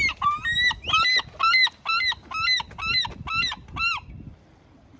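A bird giving a rapid series of about ten loud, arching calls, roughly three a second, which stops about four seconds in.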